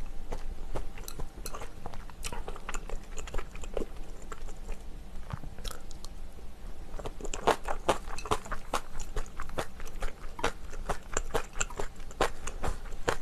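A person biting and chewing pieces of spicy braised chicken (dakbokkeumtang), with many short mouth clicks that come thicker in the second half.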